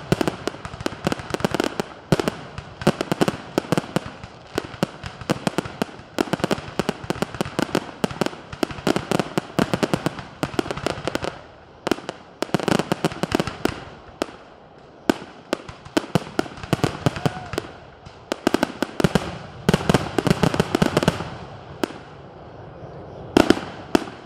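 Aerial fireworks display in a dense, rapid barrage of bangs and crackling, many shells going off in quick succession. The barrage thins near the end, then two last loud bangs go off.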